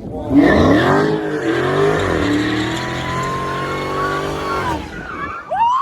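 Dodge Charger Hellcat's supercharged V8 revving up and down during donuts, with the tires squealing as they spin; the engine noise starts about half a second in and drops away near the end.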